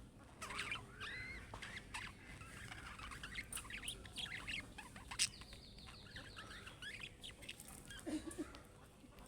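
Budgerigars chattering and warbling: a stream of quick chirps and squeaky gliding calls, with a fast buzzy trill lasting about a second partway through.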